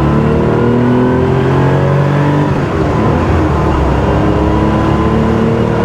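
1979 Porsche 911 SC's air-cooled flat-six, rebuilt as a 3.2-litre short-stroke with a GT3-style exhaust, pulling hard with the revs rising. The revs fall away about two and a half seconds in, then climb again near the end.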